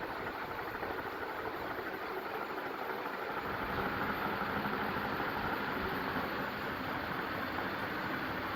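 Profan 56 industrial ceiling fan running with a steady noise, growing a little louder about three and a half seconds in.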